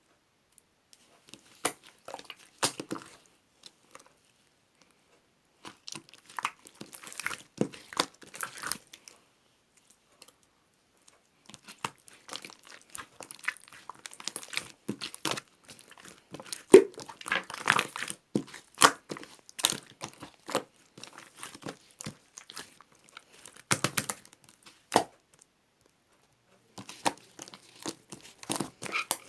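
Clear slime being squished and worked by hand, popping and crackling in quick clicks. The clicking comes in several spells with short silent pauses between them.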